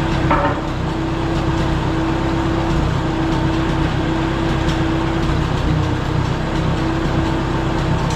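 Case 310 crawler dozer's engine running steadily, with a brief sharp sound just after the start.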